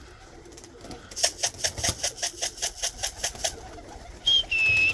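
A quick rattling run of clicks, about eight a second, for a little over two seconds, then near the end a short high whistle followed by a longer steady whistle a little lower, as the tippler pigeons are being called down to the loft.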